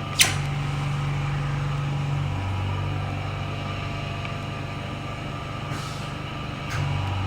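Vacuum RF V39 beauty machine running its suction pump: a steady low mechanical hum whose pitch shifts a few times, with a short click just after the start.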